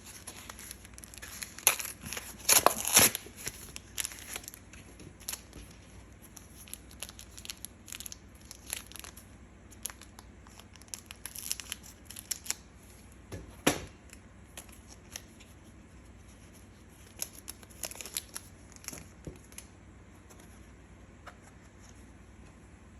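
Pokémon card booster pack's foil wrapper being torn open, loudest about two to three seconds in, followed by intermittent crinkling and rustling as the wrapper and cards are handled.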